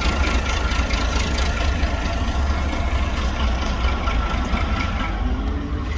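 Railway diesel engine idling steadily: a low rumble under a steady whine. It sounds duff, as if not running right.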